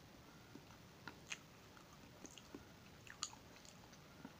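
A person chewing soft glutinous rice cake close to the microphone: faint wet mouth clicks and smacks, loudest a little over a second in and again about three seconds in.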